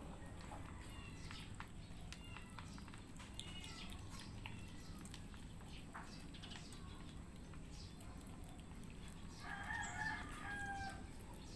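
Cats chewing and crunching dry cat food mixed with wet food, heard as faint scattered clicks. Near the end, a rooster crows once in the background, about a second and a half long.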